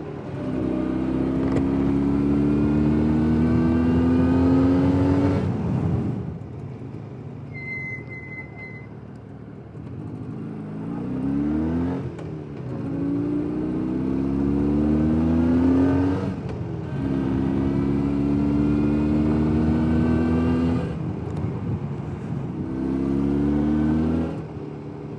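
Jawa 350 type 638 two-stroke twin motorcycle engine accelerating through the gears: four pulls with the pitch rising, each cut off by a gear change or a closed throttle, with quieter stretches of coasting between. A brief faint high beep sounds about eight seconds in.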